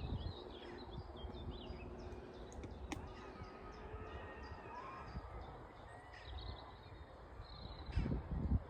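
Outdoor woodland ambience: small birds chirping and calling faintly over a steady low rumble, with a single sharp click about three seconds in.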